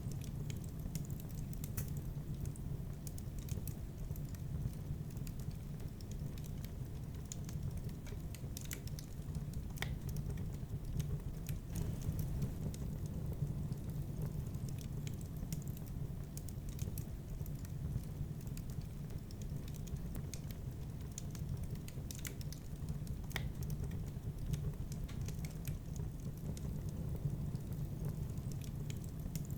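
Fire burning in a fireplace, crackling: irregular sharp pops and snaps over a steady low rumble of the flames.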